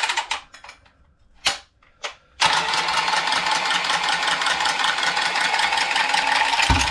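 A few short clicks and knocks, then the motor of a cordless ProPress pressing tool runs steadily for about four seconds at one pitch and stops, crimping a press coupling onto copper pipe.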